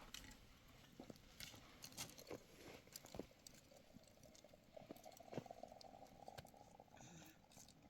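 Near silence with faint scattered clicks and light taps, and a faint steady hum for about two seconds past the middle.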